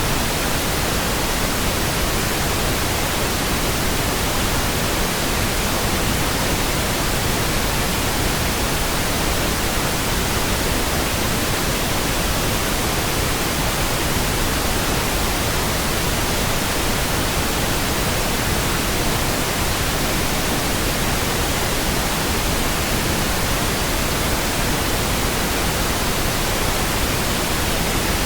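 Synthetic pink noise: a steady, even hiss spread across the whole range of pitch, with no change, rhythm or sudden sound.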